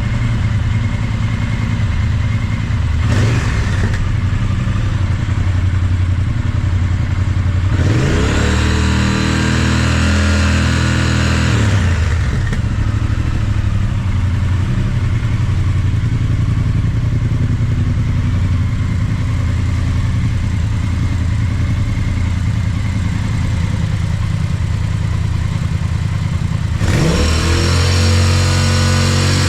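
Triumph Speed Twin motorcycle's parallel-twin engine idling, blipped once briefly, then revved up, held and let fall back to idle, with another rev starting near the end.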